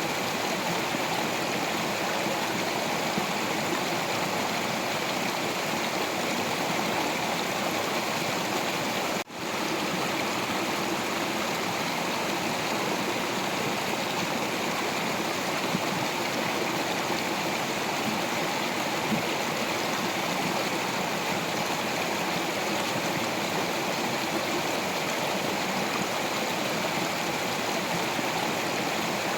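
Water of a stream flowing over rocks: a steady, unbroken rush, with one sudden brief dropout about nine seconds in.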